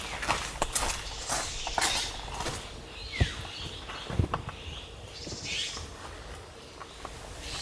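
Scattered light knocks, clicks and rustling, like things being handled at close range, with a short falling squeak about three seconds in.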